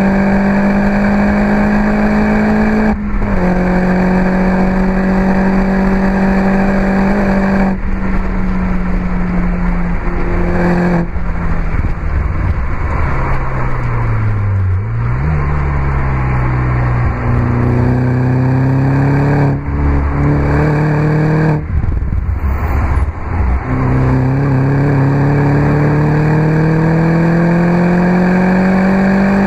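Mini John Cooper Works R59's turbocharged 1.6-litre four-cylinder with an Akrapovic exhaust under hard acceleration. The engine note climbs through each gear, with a brief break at every upshift. About halfway through the pitch falls as the car slows, then rises again.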